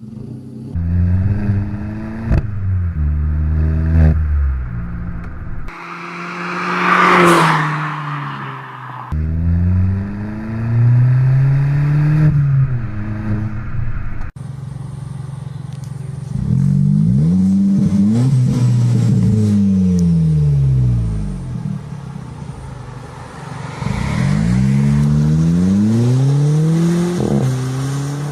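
Three-cylinder car engines being revved again and again, the pitch climbing with each blip of the throttle and falling back toward idle, across several short clips. Around seven seconds in, a louder rushing noise swells and fades.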